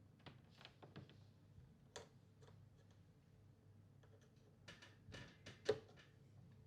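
Near silence: a faint low steady hum with scattered soft clicks and taps, a few close together near the end, the last one the sharpest.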